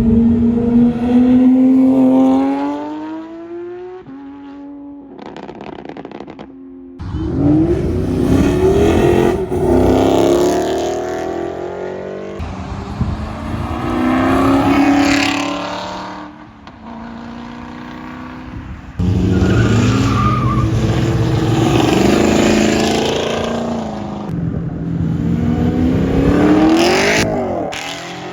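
A series of short clips of performance car engines accelerating hard, each revving up with rising pitch and shifting through gears, separated by abrupt cuts.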